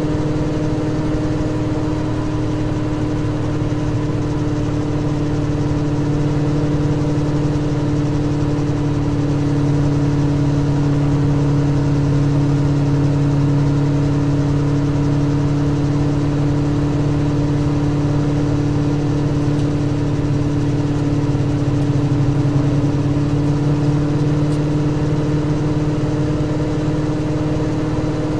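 Onboard sound of a Seven-style open sports car's engine on a track lap, a steady drone that hardly changes pitch, over a haze of wind and road noise.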